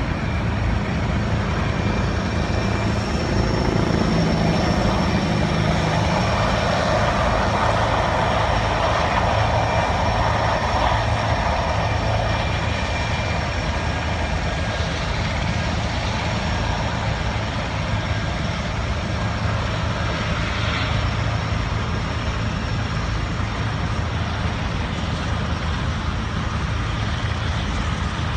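Helicopters running, their turbine engines giving a steady high whine over a low rumble from the rotors.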